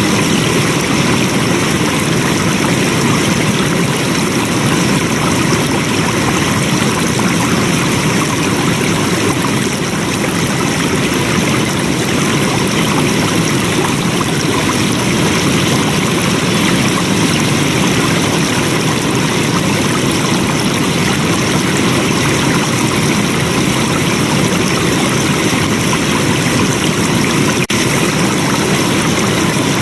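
Flowing stream water rushing steadily and evenly, with one momentary dip in level near the end.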